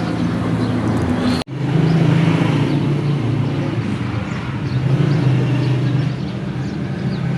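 A vehicle engine running steadily, with a brief cut about a second and a half in.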